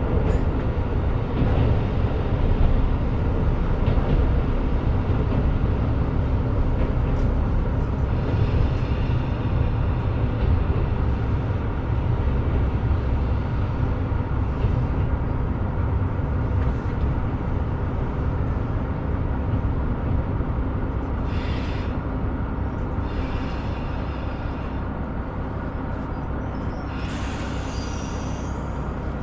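KiHa 125 diesel railcar running along the line: a steady rumble of engine and wheels on rail that eases a little near the end. Several short hisses come in over the second half.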